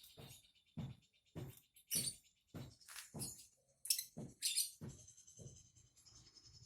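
A small caged songbird moving about: a run of quick, irregular taps and thumps, roughly two a second.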